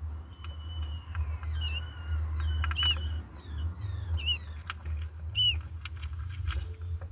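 Quail chirping: short, high, arched peeps repeated about every second and a quarter, with a few falling whistles and light clicks, over a steady low hum.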